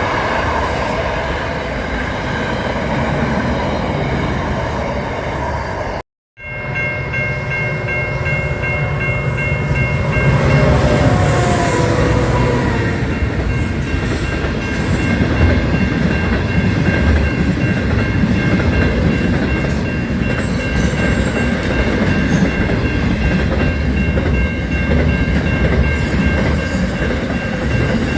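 Train running on the rails: a steady rumble and rail noise. It drops out for a moment about six seconds in, then comes back with steady high tones held above the rumble.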